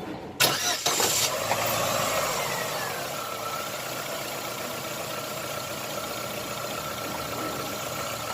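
Chevrolet Optra's four-cylinder petrol engine cranking briefly and catching about half a second in, revving up, then settling to a steady idle with a thin high whine that falls and then holds level. It idles smoothly on a freshly fitted ignition coil pack, the misfire on cylinders 2 and 3 cured.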